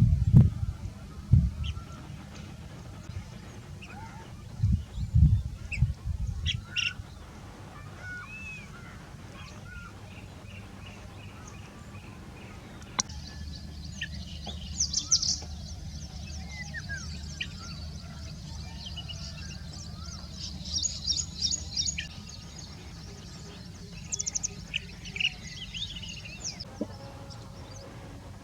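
Blue-tailed bee-eaters calling: scattered short chirps and sliding calls, with a denser stretch of high calls through the middle. Low rumbling thumps come right at the start and again about five seconds in.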